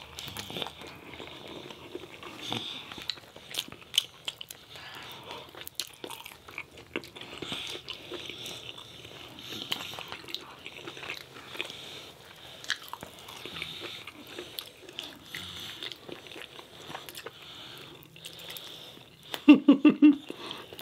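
Close-miked eating sounds of pizza and chicken wings: biting and chewing with many small clicks and smacks. A person's voice comes in briefly near the end.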